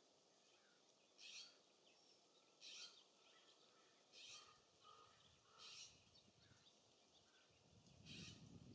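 Faint harsh bird calls repeated about every second and a half, with softer high chirps between them. Wind rumbles on the microphone near the end.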